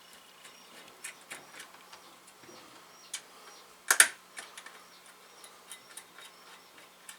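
Scattered small metallic clicks and ticks as a server CPU heatsink's mounting screws are started in each corner, with one sharper click about four seconds in.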